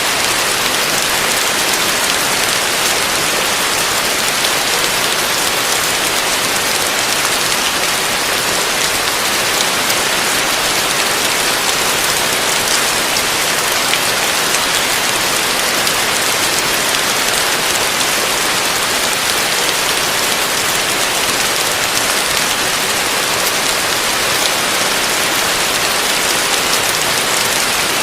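Heavy rain falling steadily: a dense, even hiss with no thunder and no change in strength.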